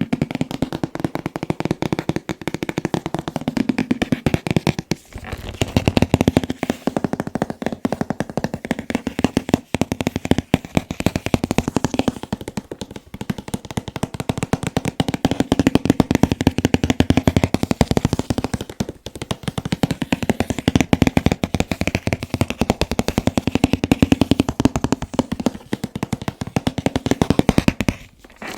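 Fast tapping on a boxed anime figure's packaging: a dense, unbroken run of quick taps, many a second, with a few short breaks.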